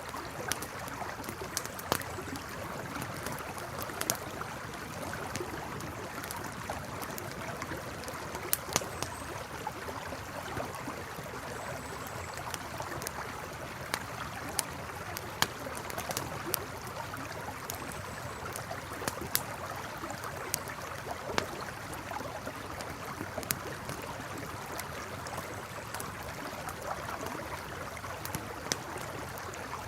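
River water flowing steadily, with a campfire crackling over it in sharp, irregular pops and snaps, a few of them loud.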